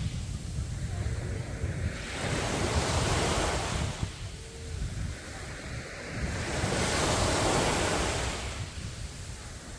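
Sea waves breaking on a beach, the surf swelling and washing in twice, with wind rumbling on the microphone.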